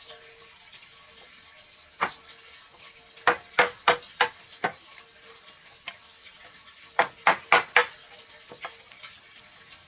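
Sharp strikes of a tool on wood, in two quick runs of four or five blows about three a second, over a steady high drone of insects.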